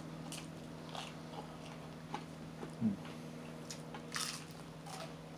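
Close-up chewing and crunching of hard McDonald's chicken nuggets: scattered crisp crunches and wet smacking mouth sounds, the loudest crunch about four seconds in.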